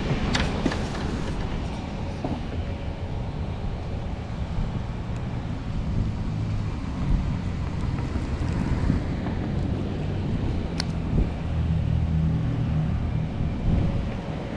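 Wind buffeting the microphone outdoors: a steady low rumble, with a couple of faint clicks.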